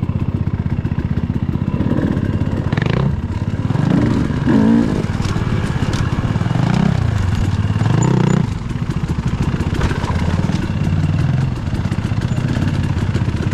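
Dirt bike engine running close by, with several short revs where the pitch rises and falls, the loudest about four to five seconds in and again near eight seconds.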